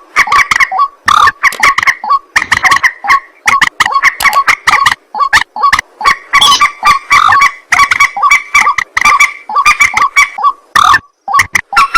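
Rails calling: a fast, loud series of harsh, repeated notes at a steady pitch, running almost without pause apart from a few short breaks, as from a looped call recording of waterhens and moorhens.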